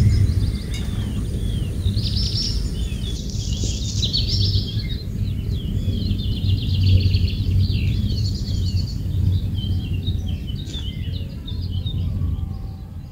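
Small birds chirping over and over in short, quick calls, over a steady low rumble of background noise.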